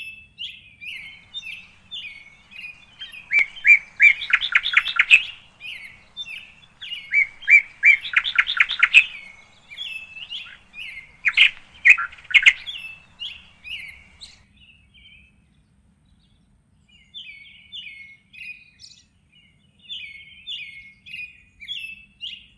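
Small songbirds chirping in a steady run of short notes. Three louder bursts of rapid repeated notes come in the first half, and there is a brief lull a little past the middle.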